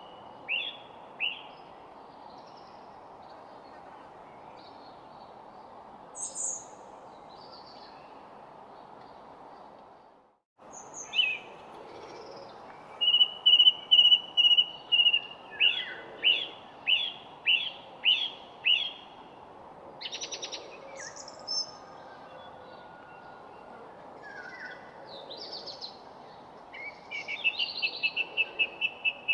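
Several wild birds singing and calling: high chirps, trills and held whistled notes, including a run of about two sharp notes a second midway, over a steady hiss of outdoor background noise. The background cuts out for a moment about ten seconds in.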